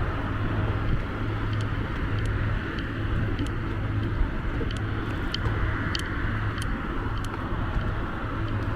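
Chain cutting through the steel hull of the Golden Ray car carrier wreck: a steady low mechanical drone with a pulsing hum, scattered with faint, short high clicks.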